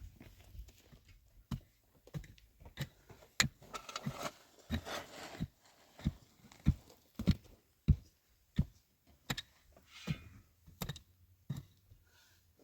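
A series of sharp knocks, roughly one every half second to a second, with a short stretch of scraping about four seconds in.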